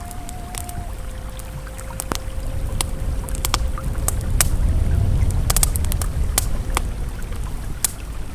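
Campfire crackling with frequent sharp pops over the steady low rush of a flowing river, which swells a little in the middle. A faint held ambient tone sits underneath.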